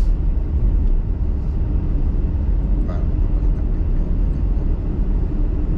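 Steady low rumble of a car driving, with a brief sharp click at the start and a fainter one about three seconds in.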